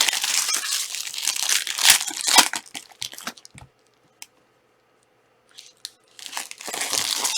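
Plastic wrapping on trading-card packs or boxes being torn open and crumpled, in two spells of crinkling with a short quiet gap and a single click between them.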